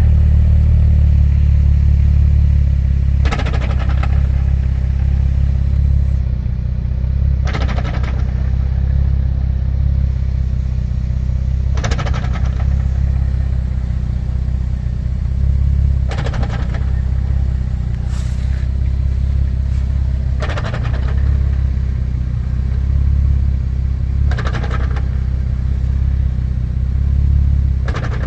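Nissan 350Z's V6 engine running steadily, with a clunk about every four seconds, seven times in all.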